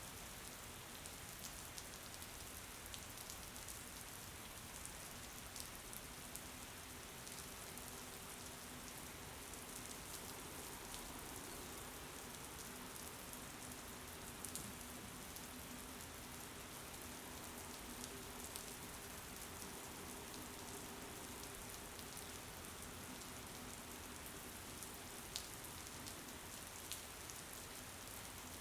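Steady rain falling, with scattered sharp drop ticks throughout. A faint low hum runs under it through the middle part.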